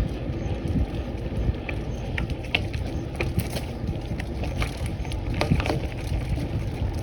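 Wind buffeting the microphone on a moving bicycle, a steady low rumble with uneven gusts and scattered faint ticks.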